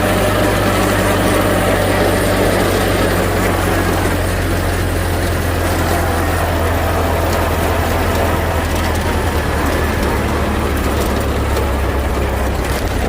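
1928 Ford Model A's four-cylinder flathead engine running steadily.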